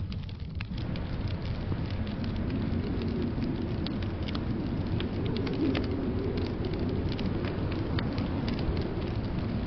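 Wood fire crackling in a fireplace, with scattered sharp pops throughout. Underneath is a steady low rumble of blizzard wind.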